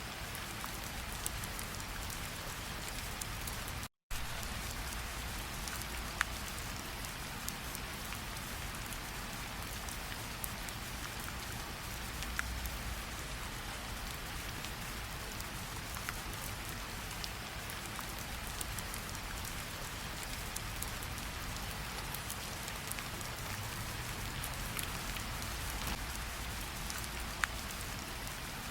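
Steady rain falling, with scattered individual drops ticking close by. The sound cuts out completely for a split second about four seconds in.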